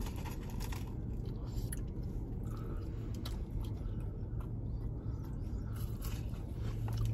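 People chewing and biting fried food close to the microphone, with small crunches and wet mouth sounds, over a low steady hum.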